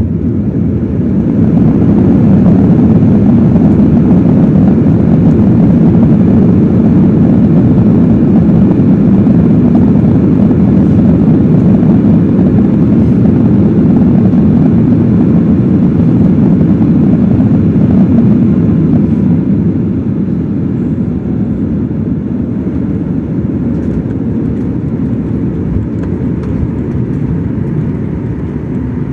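Jet airliner engines and airflow heard from inside the passenger cabin as a loud, deep rumble. It swells about a second and a half in, holds steady, then eases off to a lower rumble after about twenty seconds.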